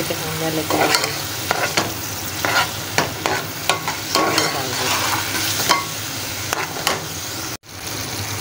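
Sliced onions and ground spices frying in oil in a steel pot, sizzling steadily, while a metal spoon stirs and scrapes against the pot with frequent sharp clicks. The sound cuts out for an instant near the end, then the sizzling resumes.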